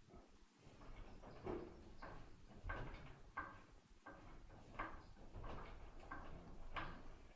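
A cow scratching an itch by rubbing against the barn, a run of short, rhythmic scrapes about every two-thirds of a second.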